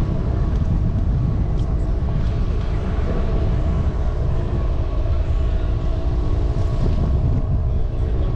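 Wind rumbling on the microphone of a moving bicycle, with a steady hum of several held tones over it.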